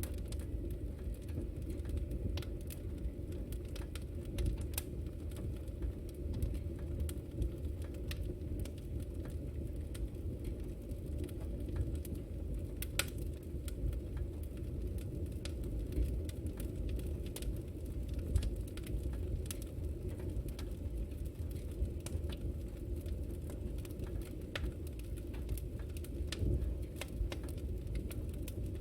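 Wood fire burning in a fireplace: a steady low rumble of flames with scattered sharp crackles and pops all through.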